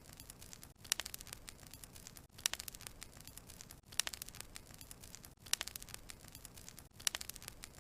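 Wood fire crackling: clusters of sharp snaps and pops over a soft hiss, coming about every second and a half at a very even spacing, like a short repeating loop.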